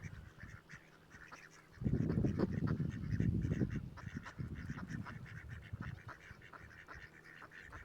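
A group of ducks calling and quacking in short, repeated notes. A loud low rumble, about two seconds long, comes in about two seconds in.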